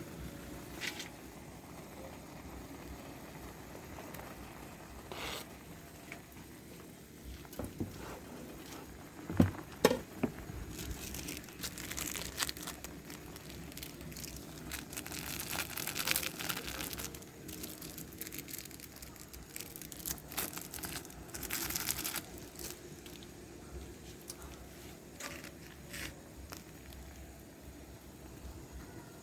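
Plastic instant-noodle packaging crinkling and being torn open in bursts. Two sharp knocks come about nine and ten seconds in.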